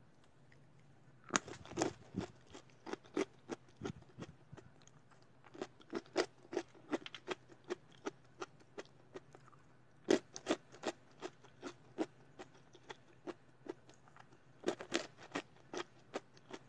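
Crisp flour-coated fried peanuts (kacang telur) being bitten and chewed: four bouts of crunching, each opening with a louder bite and going on at about three crunches a second.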